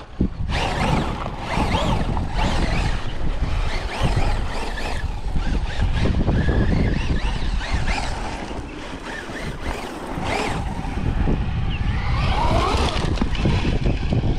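Electric RC truck driving over rough ground, its motor whine rising and falling, with wind rumbling on the microphone.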